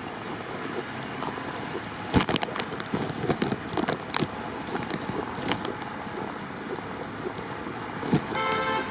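Steady rushing outdoor noise with scattered knocks and clicks, and a vehicle horn sounding briefly near the end.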